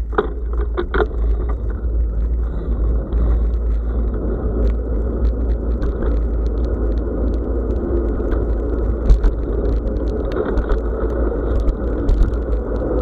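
Bicycle riding on a forest track, picked up by an action camera: steady wind buffeting on the microphone over tyre rumble, with scattered rattling clicks from the bike and the ground. The noise rises abruptly right at the start.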